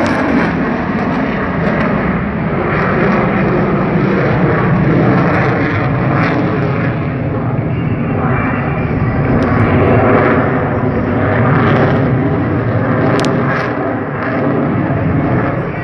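Loud, continuous engine noise of an airplane in flight, swelling and easing slightly a few times.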